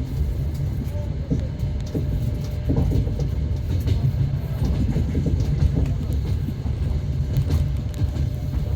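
Passenger train running on the rails, heard from inside the carriage: a steady low rumble with irregular knocks of the wheels and a few brief faint squeals.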